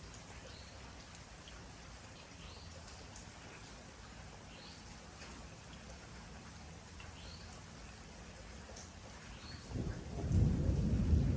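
Steady rain with scattered individual drops ticking close by. Near the end a loud, low rumble of thunder sets in and keeps building.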